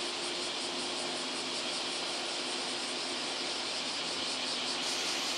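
Steady hiss with a faint steady hum from a JR 117 series electric train standing at the platform with its doors closed, just before it pulls out.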